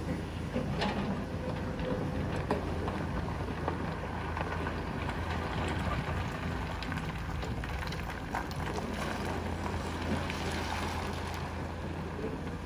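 Excavator's diesel engine running steadily, with scattered sharp knocks and clicks over it.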